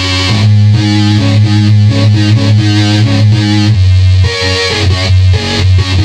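Circuit-bent electronic keyboard putting out harsh, distorted, buzzy tones: a low note held underneath while higher pitches step up and down in quick, uneven jumps.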